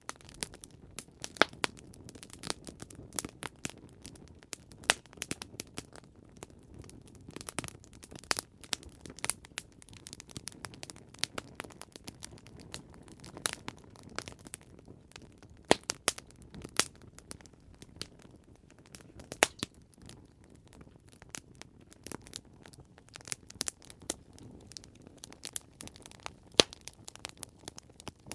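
Campfire crackling: irregular sharp snaps and pops of burning wood over a soft low rumble of the flames, with several louder pops scattered through.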